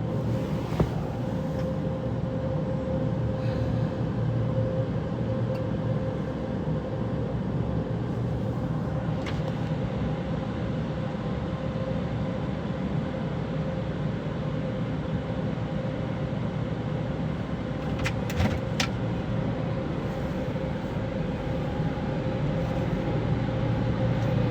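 Steady low hum of a car idling, heard from inside the cabin, with a constant tone over it and a few faint clicks about a second in and again near 18 seconds.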